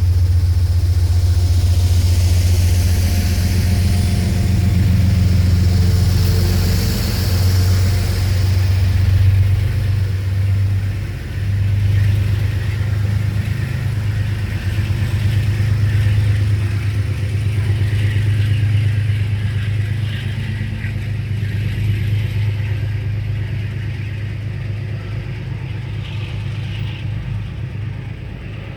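A Metro-North express train pulling out of a station, with a loud low steady drone and a hiss over it in the first several seconds. The sound fades gradually toward the end as the train moves away.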